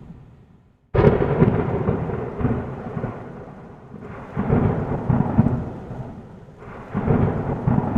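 Thunder during a storm: a sharp crack about a second in, then rolling rumbles that swell twice more, over a steady rush of rain.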